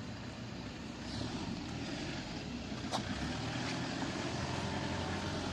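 Steady rumble of street traffic, with a single sharp click about three seconds in.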